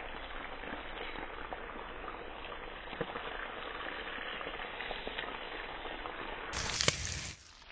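Ormers (abalone) and a topknot flatfish sizzling skin-side down in a hot frying pan: a steady crackle with scattered small pops. A brief louder rush of noise comes near the end.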